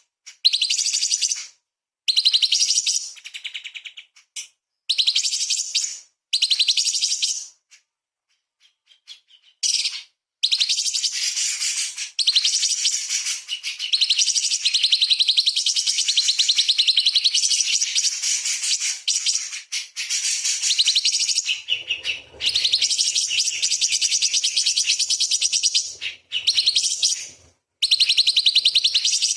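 A cucak cungkok singing fast, dense runs of high-pitched chattering 'tembakan' notes, with calls of small birds worked into its song. It comes as short bursts with pauses for the first ten seconds or so, then as near-continuous song.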